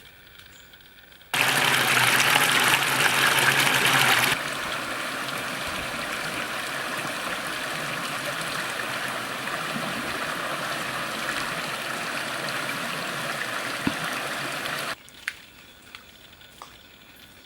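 Rushing water, a steady gush that starts suddenly about a second in. It is louder for the first three seconds, then runs evenly until it cuts off shortly before the end.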